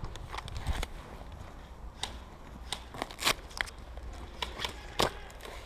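Irregular sharp clicks and snaps, about a dozen, the strongest about three and five seconds in, over a low steady rumble.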